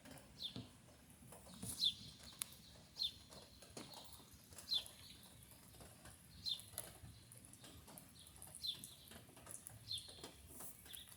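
A bird chirping over and over, one short, high, falling note about once a second.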